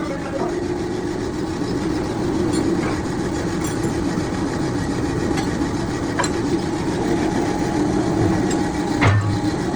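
Workshop machinery running steadily with a low hum, with a few sharp metal knocks, the loudest about 9 seconds in.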